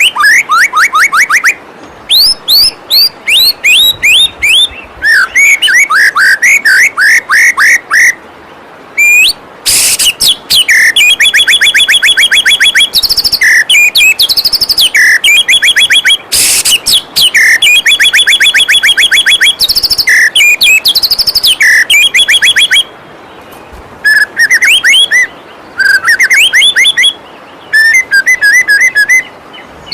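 White-rumped shama singing: rapid runs of short, sharp repeated notes, many sliding down in pitch, broken by brief pauses, over the steady rush of a waterfall.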